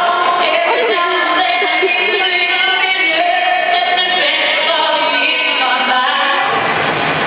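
Live music with singing, echoing in a large arena. A deep bass comes in near the end.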